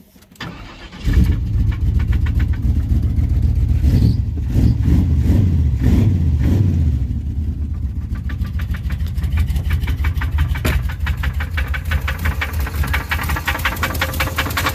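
Big-block Chevy V8 starting about a second in, revved up and down a few times, then running with a fast, even knocking that keeps time with the engine: the owner takes it for a rod knock, possibly a main bearing, and rules out a lifter, pushrod or rocker arm.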